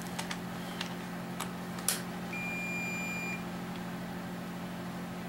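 A few light metallic clicks, then one electronic beep held for about a second, over a steady low hum.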